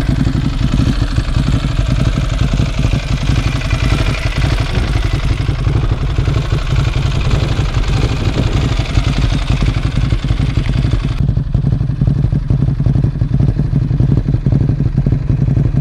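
Ducati Hypermotard's L-twin engine running while being ridden, with a steady low drone. A rush of wind noise on the microphone accompanies it and stops abruptly about eleven seconds in.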